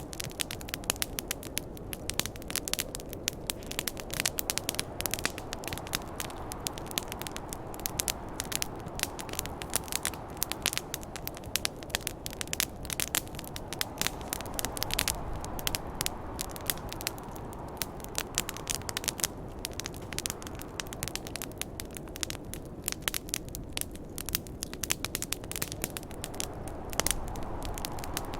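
Wood fire crackling and popping continuously, with many sharp snaps over a steady rushing of wind that slowly swells and eases.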